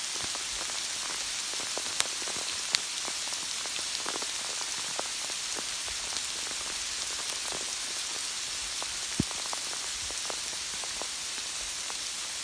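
Steady rain falling, an even hiss with scattered sharp ticks of drops, a few louder ones striking close by.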